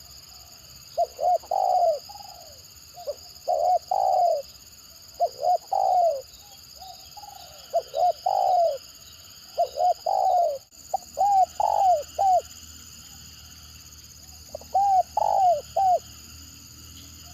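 Spotted dove (tekukur) cooing over and over: phrases of two or three quick clipped notes and a longer coo, about every second and a half, with a pause of a couple of seconds before the last phrase. This is the halting 'gagap' (stuttering) call used to lure other doves.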